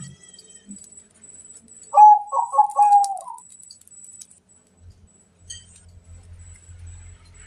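Zebra dove (perkutut) cooing: one phrase of about four quick notes ending in a longer drawn-out note, about two seconds in.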